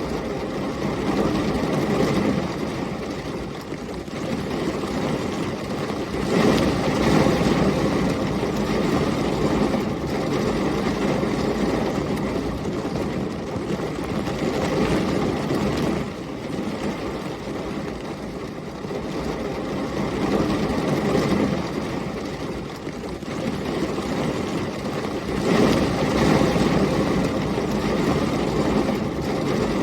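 Heavy rain pouring in a thunderstorm, with a low rumbling storm noise under it that swells louder twice, about six seconds in and again near the end.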